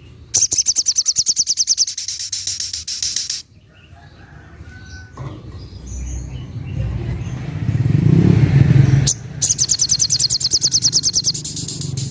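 Sogok ontong (ruby-cheeked sunbird) singing its 'tembakan': two rapid, evenly pulsed high-pitched trills of a few seconds each, the second starting about nine seconds in. Between them a low rumble swells and cuts off just before the second trill.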